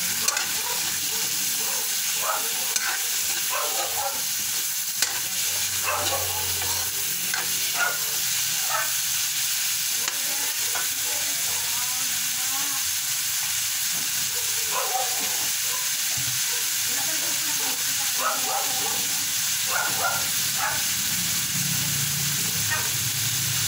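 Meat, onion and garlic frying in oil in a steel wok, sizzling steadily, with a metal ladle scraping and knocking against the wok now and then as it is stirred.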